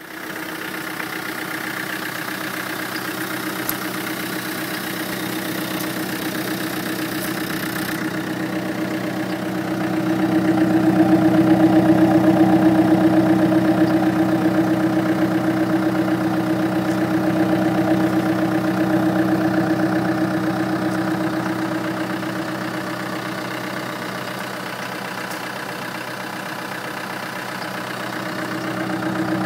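Land Rover Defender 300Tdi 2.5-litre four-cylinder turbo-diesel engine idling steadily, with a noise from the intake that the owner is unsure is normal even after checking and rechecking the valve clearances. It grows louder about ten seconds in and eases off again later.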